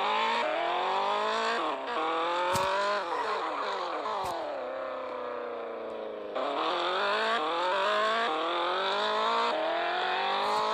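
Toyota Supra's 2JZ straight-six engine accelerating through the gears, its pitch climbing and dropping back at each upshift. About three seconds in it eases off and the revs fall, then it pulls hard through the gears again from about six seconds. Two sharp clicks are heard in the middle.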